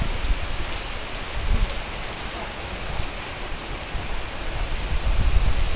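Steady heavy rain falling, with a low rumble building near the end.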